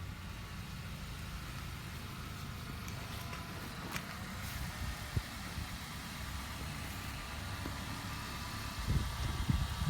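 Yamaha Vino scooter engine idling steadily, a low even rumble. Some irregular low buffeting on the microphone comes in near the end.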